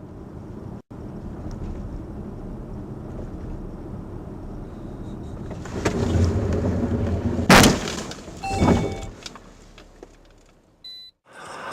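Car driving with steady road noise that grows louder, then a loud collision impact about seven and a half seconds in, followed a second later by a second, shorter crash with brief ringing.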